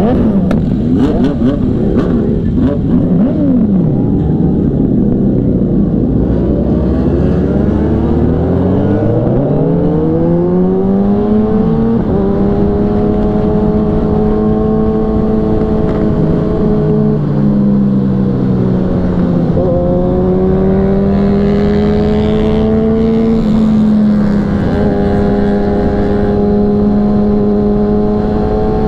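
Kawasaki superbike inline-four engines: at first several bikes rev together with overlapping, shifting pitches. Then one engine pulls hard, its pitch climbing steeply for a few seconds, and holds a high steady pitch at speed, dipping briefly twice.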